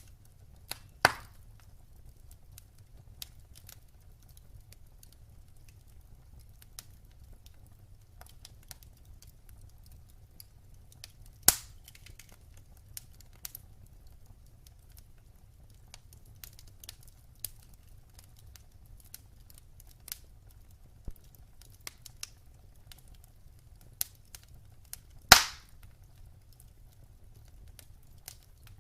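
Wood fire burning in a fireplace: sparse quiet crackles over a low steady rumble, with three loud sharp pops, about a second in, near the middle and near the end, the last the loudest.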